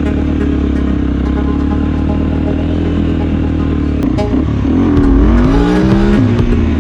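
Small off-road engine running steadily, then revving about five seconds in, its pitch dropping and climbing again.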